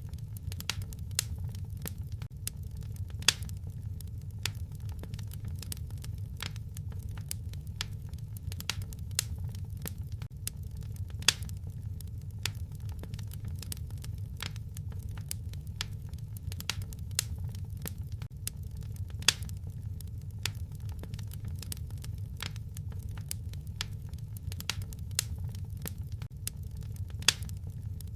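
Fire in a fireplace crackling: irregular sharp pops and snaps over a steady low rumble, with a few louder pops every several seconds.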